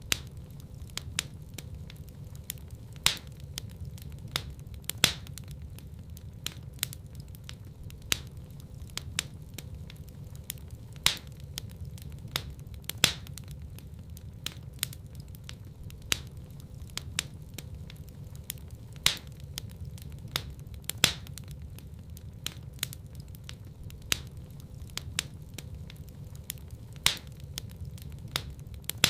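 Wood fire in a fireplace crackling, with a steady low rumble of burning and sharp pops several times a second, a few of them louder.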